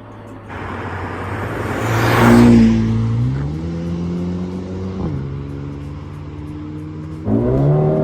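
Mercedes-AMG CLA 35's 2.0-litre turbocharged four-cylinder engine accelerating hard: its pitch climbs, falls back about five seconds in as it shifts up, then jumps and climbs again near the end as it pulls once more.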